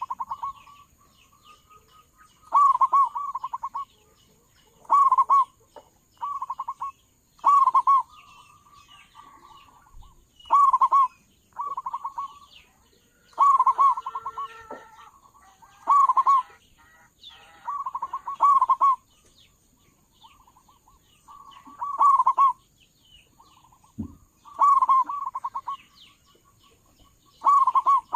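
Zebra dove (local perkutut) cooing: about a dozen short bursts of quick, stuttering coos, one every two or three seconds, with fainter calls in between.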